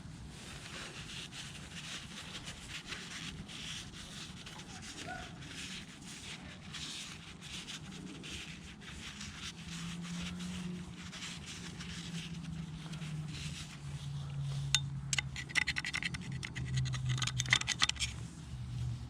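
Metal tools and motorcycle front-end parts being handled: scraping and rubbing over a low steady hum, with a fast run of clicks from about fifteen seconds in.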